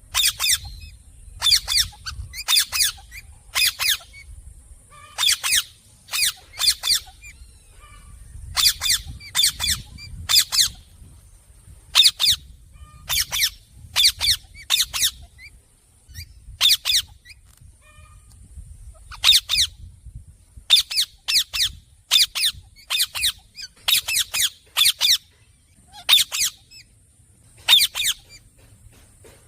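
Parrot squawking: short, harsh, high calls in quick clusters of two to four, repeated with pauses between the clusters.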